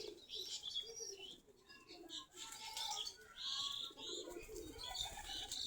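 A flock of native-breed domestic pigeons cooing, with short high chirps scattered among the coos.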